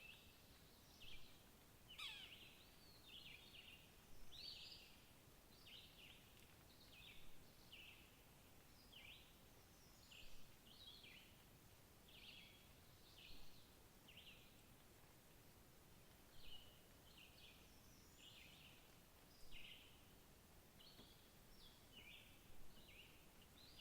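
Faint small birds chirping: a steady run of short, high calls, one or two a second, over a quiet background hiss.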